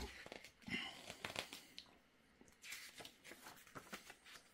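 A foam packing insert is being worked out of a 3D printer's shipping box, giving faint rustling and scraping in short bursts about one and three seconds in.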